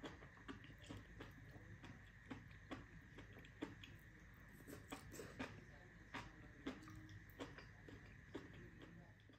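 Faint chewing of food, with many small irregular clicks of the mouth and teeth, over a faint steady hum.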